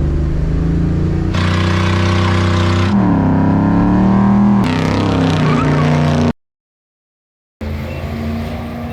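A motor vehicle engine running and revving, loud, in several abruptly cut segments, one with a brief dip and rise in pitch. About six seconds in it cuts to complete silence for over a second, then a quieter steady engine sound follows.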